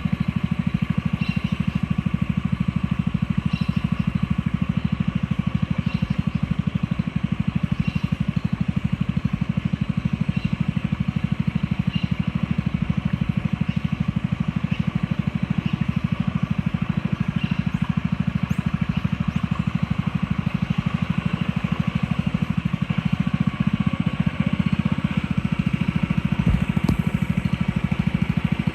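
A boat's motor running steadily under way, with a fast, even pulse. A faint high chirp recurs about every two seconds over it.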